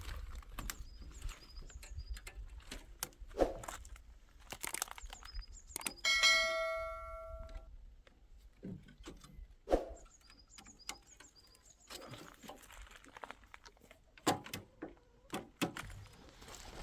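Scattered knocks and clatter from objects being handled, with a metal object struck once about six seconds in and ringing out for a second or so.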